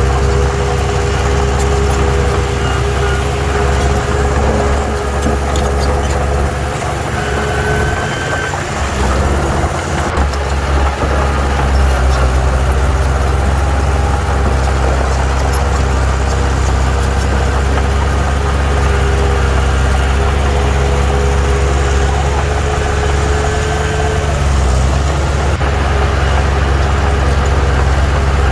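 Diesel engine of heavy earthmoving machinery running steadily, with a higher whine above it that wavers in pitch.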